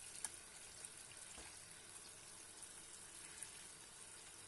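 Faint, steady sizzle of frozen tomato slices frying in butter in a pan on high heat, with a few light clicks as metal tongs turn them.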